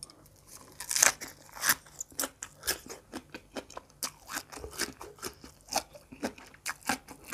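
Close-up crunchy chewing of a mouthful of green papaya salad (som tam) wrapped in a fresh green leaf: a steady run of sharp crunches, about two to three a second, the loudest about a second in.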